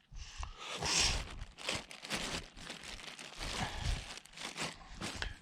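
Irregular rustling and crinkling close to the microphone, with small sharp crackles, loudest about a second in.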